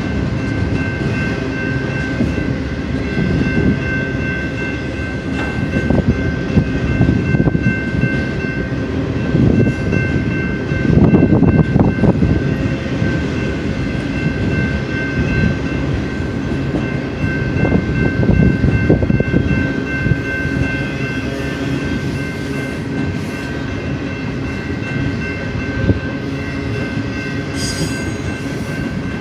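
BNSF intermodal freight train rolling past, its cars rumbling and clattering over the rails, with louder surges twice. Faint steady high-pitched tones sound over the rumble.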